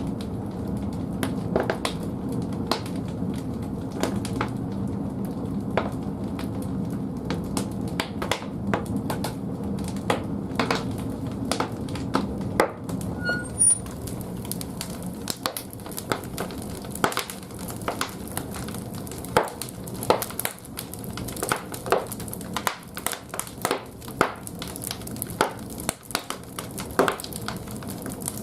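Large firewood burning in the firebox of an old wood-fired bathhouse boiler: a steady low roar of the fire with sharp crackles and pops. About halfway through the roar eases and the crackling becomes sparser but sharper.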